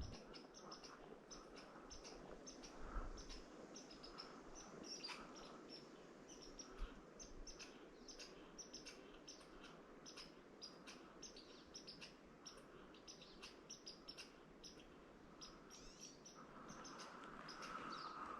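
Faint chirping of small birds: short, high notes repeating irregularly, at times several a second.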